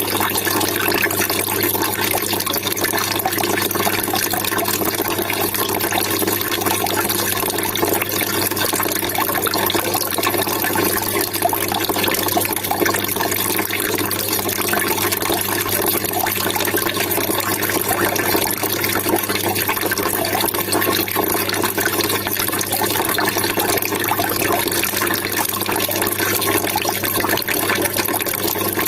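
Water trickling and splashing, steady and unbroken, like a small cascade or fountain.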